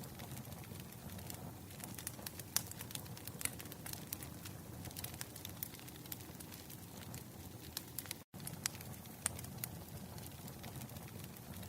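Wood fire crackling, with a steady low rumble and irregular sharp pops and snaps. The sound cuts out for a split second about eight seconds in.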